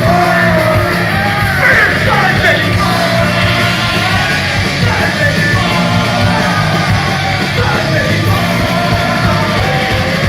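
Punk rock band playing live at full volume, with shouted vocals over the band.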